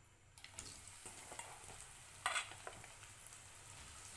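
Sliced tempeh dropped piece by piece into hot cooking oil in a frying pan. The oil starts sizzling about half a second in and goes on steadily, with one sharper crackle a little after two seconds.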